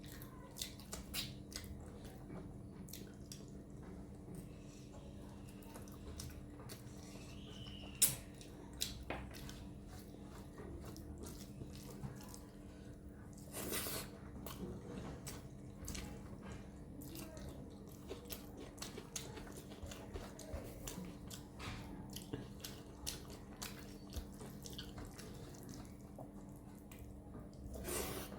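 Close-miked eating of rice and chicken curry: wet chewing and many small mouth clicks and smacks throughout, with a couple of louder, longer noisy bursts, one about halfway through and one at the end. A steady low hum runs underneath.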